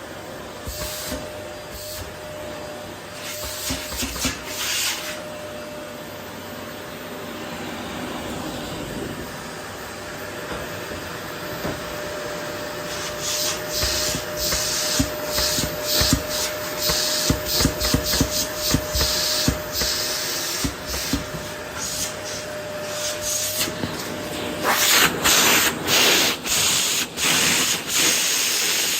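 Vacuum cleaner running with its nozzle rubbing and scraping back and forth over a wooden floor as it picks up rose petals, in quick repeated strokes that grow busier from about halfway through. Its steady whine drops out near the end while the scraping gets louder.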